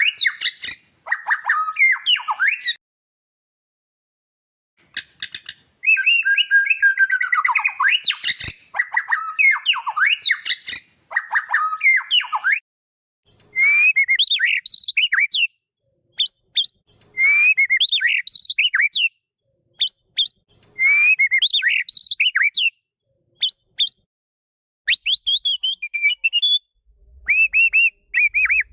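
White-rumped shama (murai batu) singing: varied whistled and chattering phrases separated by pauses, with a silent gap of about three seconds near the start. Near the end comes a run of short, quickly repeated notes.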